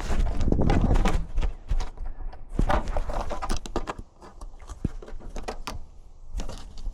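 Irregular knocks, scrapes and thumps with a low rumble from a camera strapped to a cat, jostled as the cat moves and climbs. It starts with a sudden thump.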